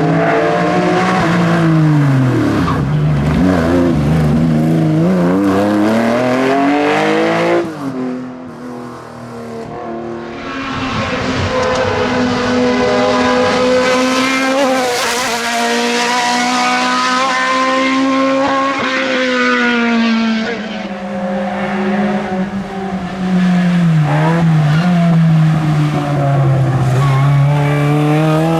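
Historic racing cars' engines revving hard and changing gear as they climb a hillclimb course, one car after another. The sound drops abruptly about eight seconds in, then a second engine rises and holds high revs before dipping and pulling up again near the end.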